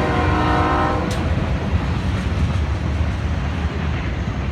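Diesel locomotive horn sounding a chord that cuts off about a second in, over the steady low rumble of a short CSX local freight train passing, led by a GE C40-8W diesel.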